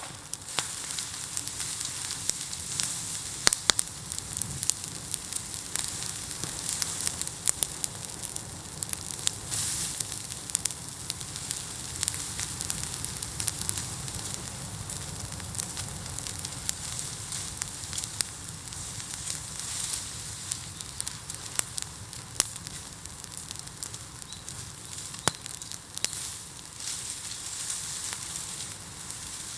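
A heaped bamboo bonfire burning, with a steady crackling hiss and frequent sharp pops scattered throughout.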